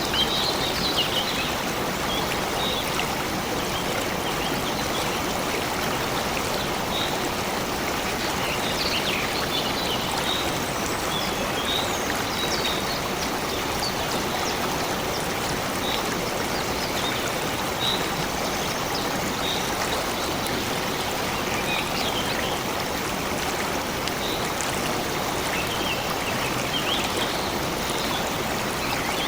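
Stream water running steadily, with birds chirping in short, scattered calls over it.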